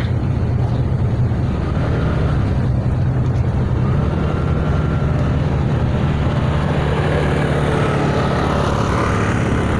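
Fishing boat's engine running steadily: a loud, even low drone with no change in speed.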